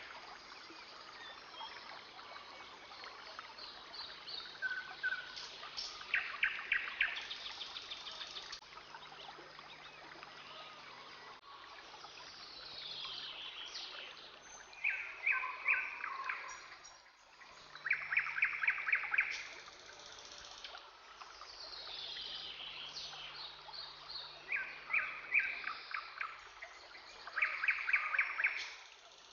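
Rainforest ambience: birds calling over a faint trickle of water, with repeated short trilled calls about every three seconds and a few descending whistles.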